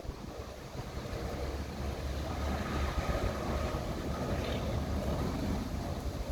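Wind buffeting the microphone over a steady low rumble, with a faint thin tone partway through.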